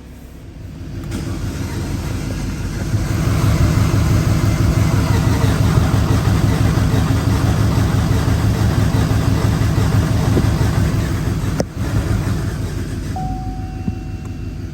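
2017 Camaro SS 1LE's rebuilt 6.2-litre LT1 V8, with 2-inch headers and a 3-inch X-pipe exhaust, running loud under heavy throttle. The sound builds over the first few seconds and holds, cuts out for a moment near the end, then carries on less loud.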